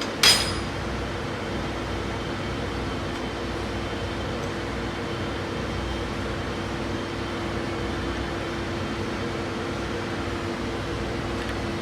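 One sharp metallic clank just after the start, over a steady mechanical hum with a low constant tone in it.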